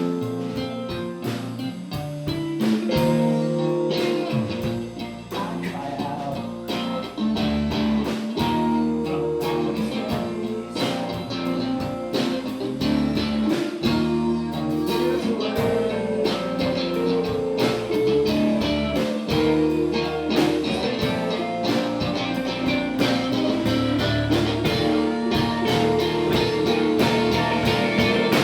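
Rock band playing live: guitar chords over a drum kit.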